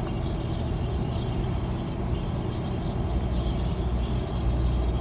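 1992 Ford Ranger pickup's engine running in gear as it pulls up a hill, heard from inside the cab with road noise. A steady low hum that grows a little stronger near the end.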